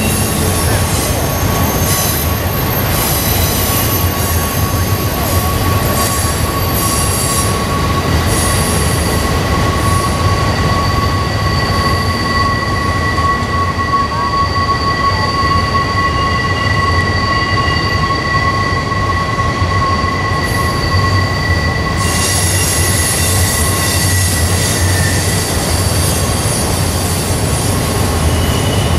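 Train rolling past with its wheels squealing against the rail: several long, held high-pitched squeals that overlap and fade in and out over a steady loud rumble of the passing cars.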